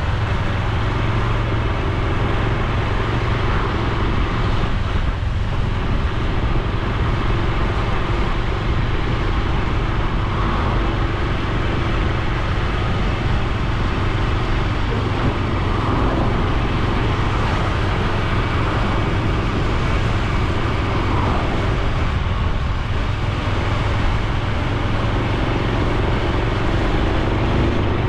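Honda Super Cub C125's single-cylinder four-stroke engine running steadily while the bike is ridden, its exhaust note holding near one pitch with a few small rises and dips.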